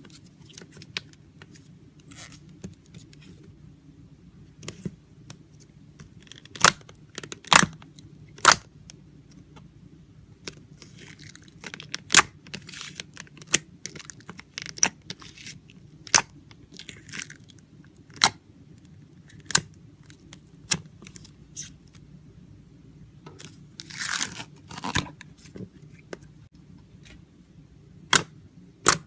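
Slime being squeezed and pressed, giving sharp clicking pops and crackles at irregular intervals, over a steady low hum.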